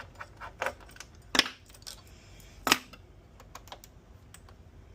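Small scattered clicks and taps of hard parts and tools being handled while a PS5 console is taken apart, with two louder knocks about one and a half and nearly three seconds in.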